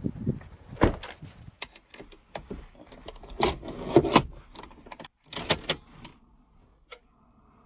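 Someone handling a car's door and keys: a string of clicks and knocks with two louder rustling bursts, then quiet for the last second or two.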